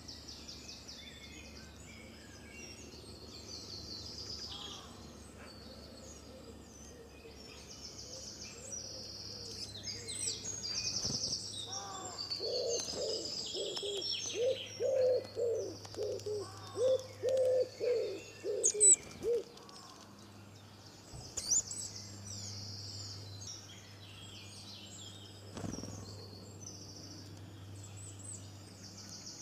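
Many small birds chirping and twittering, with a run of about a dozen louder, lower, harsh calls in the middle, over a faint steady low hum.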